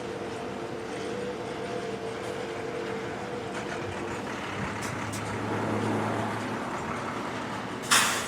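Canadian National taconite freight train running by with a steady rumble. A short, loud burst of noise comes near the end.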